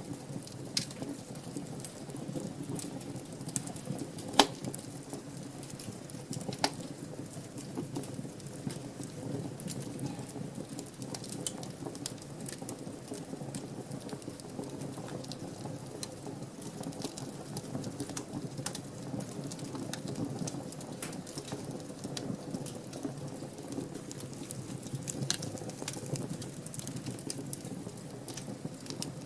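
Wood fire crackling in a fireplace: a steady low rumble of burning with frequent small pops and clicks, and a sharp louder crack about four seconds in and another near seven seconds.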